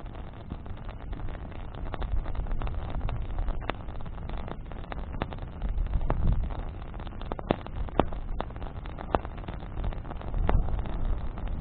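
Campfire of burning branches crackling, with sharp pops scattered every second or so. A low rumble of wind buffeting the microphone rises and falls beneath it, swelling about halfway through and again near the end.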